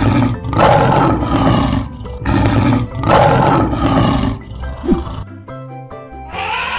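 Lion roaring twice, each roar about two seconds long, over cheerful background music.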